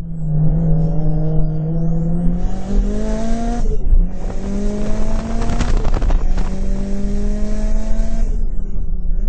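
Mitsubishi Lancer Evolution IX's turbocharged 4G63 four-cylinder engine heard from inside the cabin, accelerating hard through the gears. Its pitch climbs in three pulls, broken by upshifts about four and six seconds in, then it drops back as the throttle is lifted near the end.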